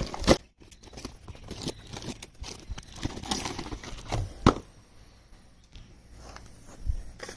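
Shipping box being opened and unpacked by hand: scattered rustling and scraping of the packaging, with sharp knocks about a third of a second in and again about four and a half seconds in, and a dull thump near the end.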